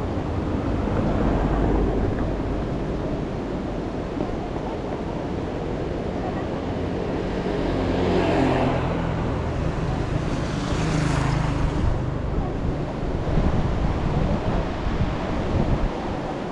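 Street traffic with wind buffeting the microphone: a steady low rumble of engines and road noise, with vehicles passing by about halfway through and again a few seconds later.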